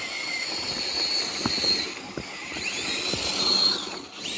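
Electric motor and gears of a radio-controlled crawler truck whining at high pitch, rising as it speeds up about two and a half seconds in and cutting out shortly before the end, with a few sharp knocks.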